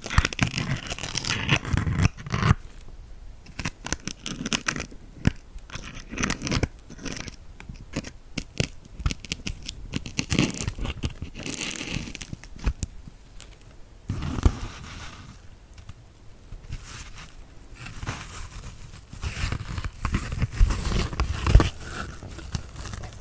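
Needles being pushed into a kitchen dish sponge and the sponge handled close to the microphone. The sound is irregular crunching and scratching with many small sharp clicks.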